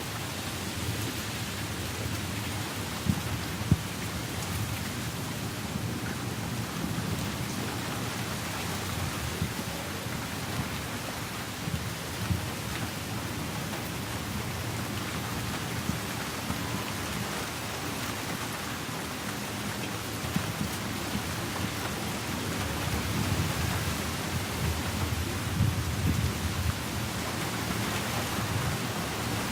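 Steady rain falling, with a low rumble of thunder that swells a little in the last few seconds.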